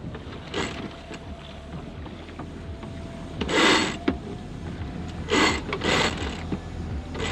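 Water rushing and splashing around a small sailboat's hull in short bursts over a steady low rumble, the loudest burst a little over three and a half seconds in.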